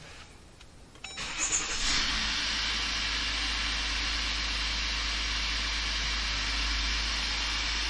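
Jeep Grand Cherokee EcoDiesel's 3.0 L V6 turbodiesel starting about a second in, catching quickly after brief cranking, then idling steadily through an aftermarket FloPro exhaust. This is the first start after flashing a new engine tune.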